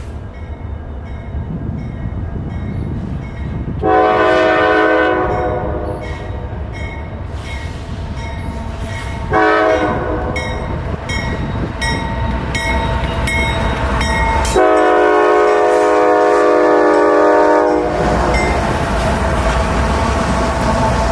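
Norfolk Southern freight train's locomotive horn sounding three blasts, long, short and long, over the low rumble of the train. After the last blast, the steady rolling noise of the cars passing on the rails.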